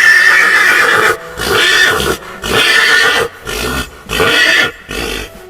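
A horse neighing: one long high whinny followed by four shorter whinnies, the last one weaker.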